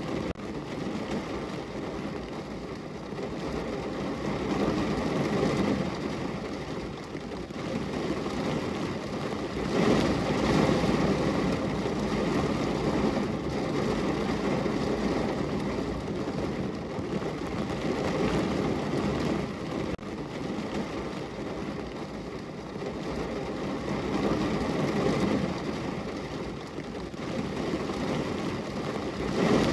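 Steady rain heard at a window: a continuous rushing wash of rain noise that swells and eases every several seconds.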